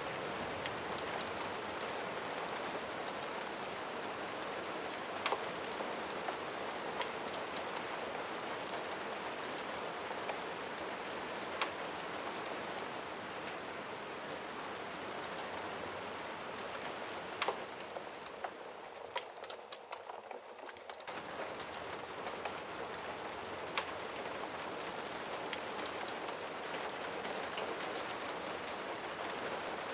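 Steady rain falling, a dense even hiss with scattered sharp drip-like ticks. About two-thirds of the way through the rain thins for a couple of seconds, then comes back suddenly.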